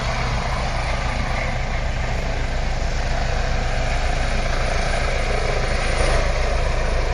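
Helicopter running, a steady low rotor beat under an even engine-and-blade rush, growing slightly louder from about halfway through.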